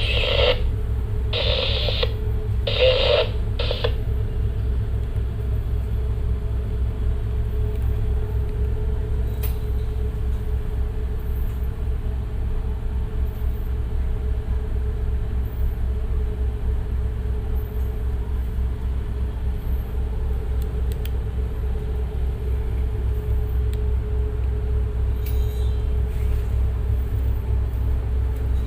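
Tugboat diesel engines running steadily under working power, a deep, even rumble with a steady hum above it, as the tug uses its engines to assist a large ship off the berth. Four short bursts of sound come through in the first four seconds.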